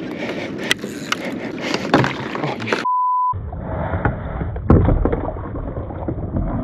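A half-second steady 1 kHz censor bleep about three seconds in, set in a gap of silence between stretches of rough outdoor noise with scattered knocks.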